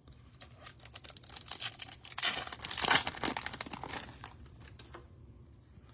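Crinkly wrapper of a trading-card pack being torn open and rustled, an irregular run of crackling that is loudest about two to three seconds in and dies away near the end.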